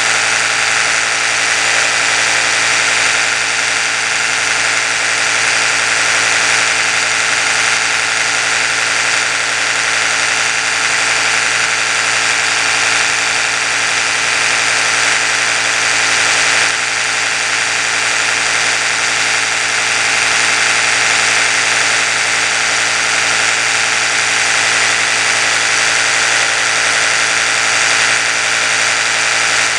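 Oral-B electric toothbrush motor running steadily: a continuous pitched hum with a strong hiss over it, dipping slightly for a moment about seventeen seconds in.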